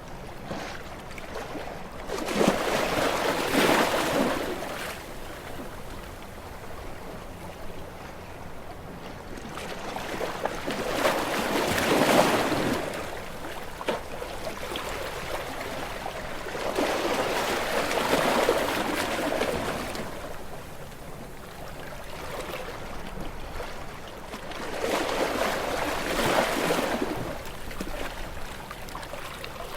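Sea waves breaking against shore rocks: four surges about seven seconds apart, each swelling and falling away over a few seconds, over a steady wash of water.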